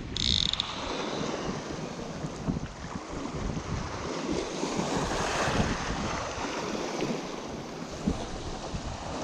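Wind buffeting the microphone over steady lapping of choppy water, with a brief high-pitched chirp just after the start.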